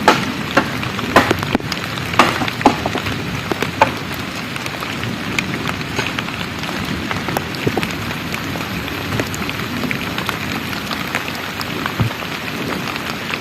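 Heavy rain falling steadily, with many sharp separate drop hits on a nearby surface, thickest in the first few seconds.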